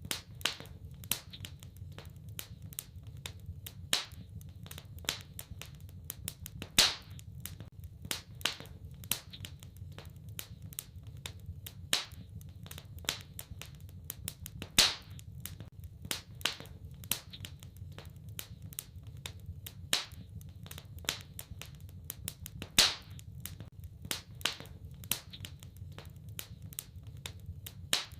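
Wood fire in a fireplace crackling: a constant run of small irregular crackles, with a few much louder sharp pops every several seconds, over a low steady rumble.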